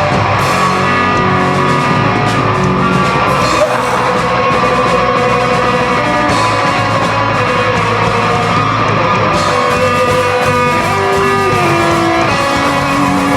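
Live rock band playing loud, with electric guitars and drums and some singing or yelling over them.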